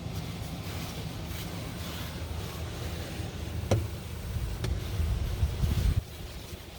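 D&S 5000 in-bay automatic car wash running, heard from inside the car: a steady low machine hum, with a sharp click about halfway. A heavier rumble builds after that and cuts off suddenly near the end as a stage of the wash stops.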